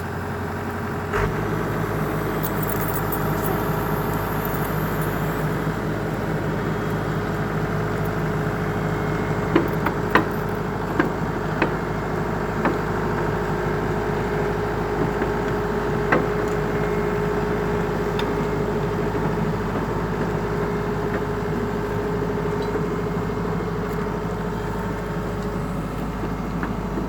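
Excavator's diesel engine running steadily, its sound shifting about a second in, with a handful of short sharp knocks between about 9 and 16 seconds in.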